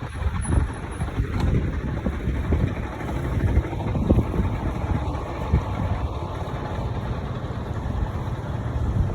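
Wind buffeting the microphone: a gusty low rumble that rises and falls in strength.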